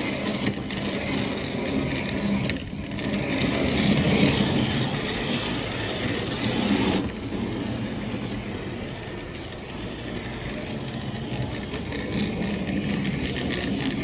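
Lionel No. 50 gang car running along toy train track, its small electric motor and gears whirring steadily. The sound gets quieter about seven seconds in.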